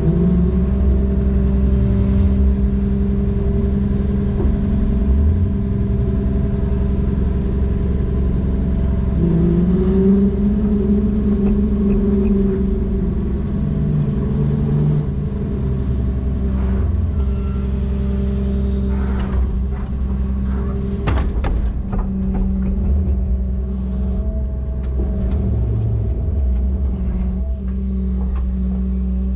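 Heavy diesel engine running steadily, its revs rising about a third of the way in and dropping back a few seconds later. A couple of sharp knocks come about two-thirds of the way through.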